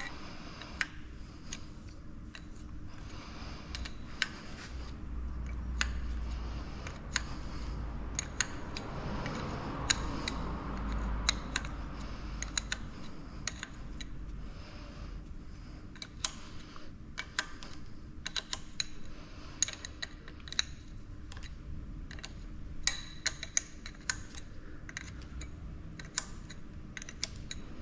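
Irregular light clicks and taps of metal on metal as hand tools and small fittings are worked on a hydraulic cylinder, with a faint low rumble in the middle stretch.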